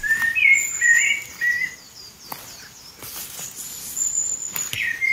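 Small birds singing: short chirping notes that slide up and down, with a thin high note held on and off.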